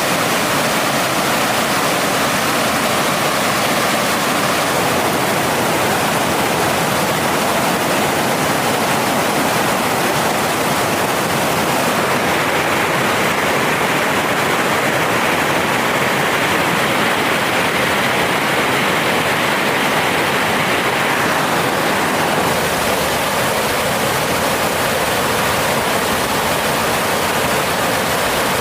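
Mountain stream water rushing, a loud steady noise whose tone shifts about twelve seconds in and again about ten seconds later.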